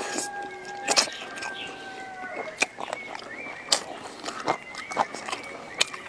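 Close-up chewing and crunching of stir-fried wild celery and beef, with wet smacking clicks throughout. In the background an animal gives one long, held call over the first two and a half seconds.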